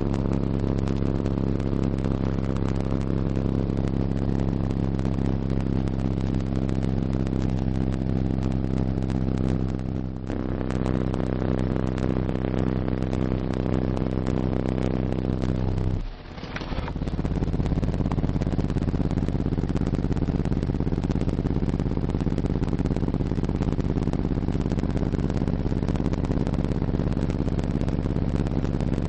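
Two RE Audio MX15 15-inch subwoofers in a ported enclosure playing a low bass test tone at high power, heard as a loud buzzing drone full of overtones. The tone dips briefly about ten seconds in and cuts out for a moment at about sixteen seconds, then comes back.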